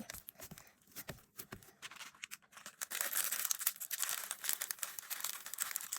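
Hands squishing and stretching slime, making sticky clicking and crackling. The crackling is sparse at first and becomes dense and continuous from about two and a half seconds in.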